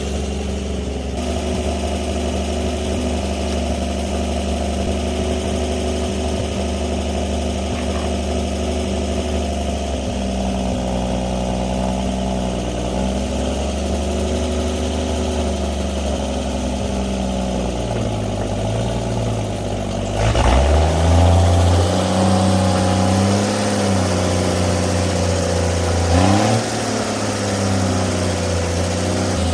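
Truck engine idling steadily, then revved up about twenty seconds in and held at higher speed, with a second short rev a few seconds later.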